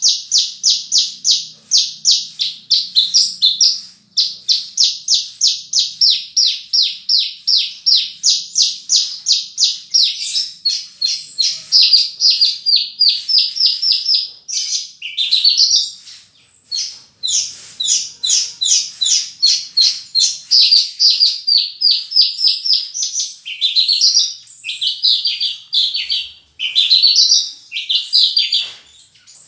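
Javan bushlark (branjangan) in full song. It gives long runs of rapid, evenly repeated high chirps, several a second, then varied rising and falling phrases from about halfway on, typical of the mimicked 'isian' repertoire.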